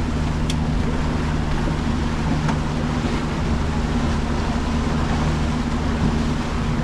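Small boat's engine running steadily under way, a constant low drone, with wind and water rushing past.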